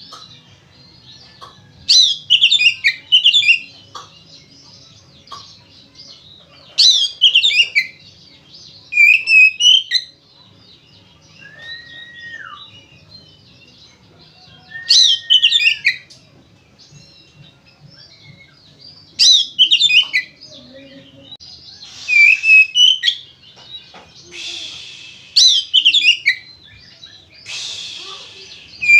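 Oriental magpie-robin (kacer) in loud, full fighting song: short bursts of fast sweeping whistled notes every few seconds, some mixed with harsh rasping notes. Two clear, lower drawn-out whistles come in the middle.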